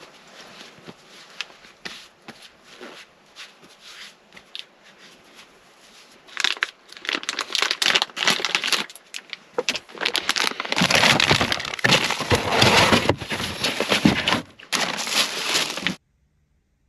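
Crinkling and crunching, like material being crumpled or handled, faint with scattered clicks at first. It turns loud and dense about six seconds in and cuts off abruptly near the end.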